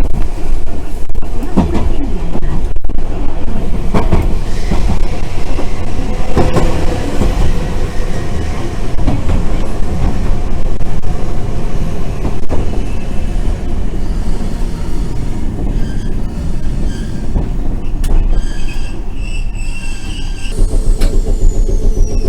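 Randen tram running along its line, heard from inside the car: a steady low rumble of wheels on the rails with scattered clicks. Near the end a high whine falls in pitch.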